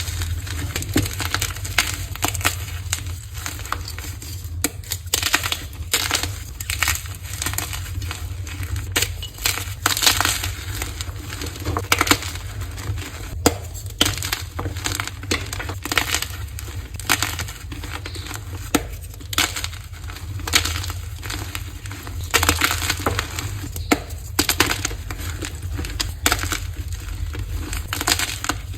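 Crunchy blocks of dyed gym chalk being crushed, a dense, irregular run of crisp crunches that keeps going without pause.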